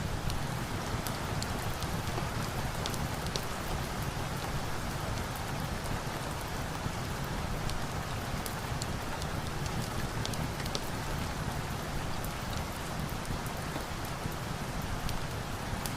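Steady rain falling, an even hiss, with scattered sharp little ticks and crackles on top.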